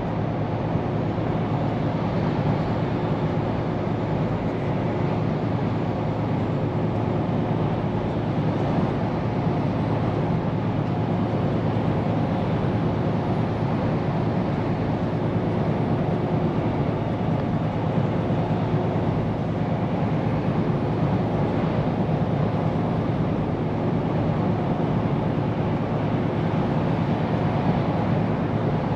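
Scania P410 truck's diesel engine and tyres while driving: a steady drone with road noise that holds even, with no gear changes or sudden sounds.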